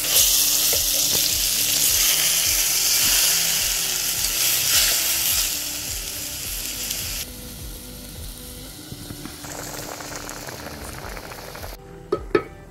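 Mutton sizzling hard in hot ghee in a clay cooking pot as water goes in. The sizzle drops to a quieter bubbling about seven seconds in, and a wooden ladle knocks against the pot a few times near the end.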